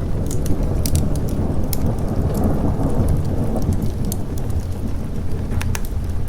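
Thunder rolling low and long over steady rain, swelling in the middle and easing off toward the end, with scattered sharp crackles on top.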